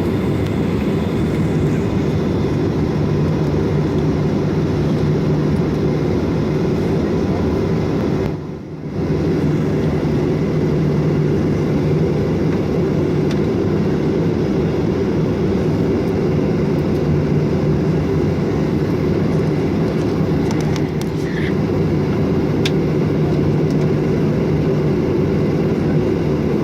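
Steady low rumble and hum of a Boeing 737-800's CFM56-7B jet engines heard from inside the cabin. The sound briefly drops out about eight seconds in.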